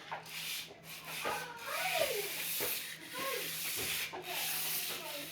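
Steady rasping, scraping rub, like sanding, with a few faint gliding vocal sounds under it.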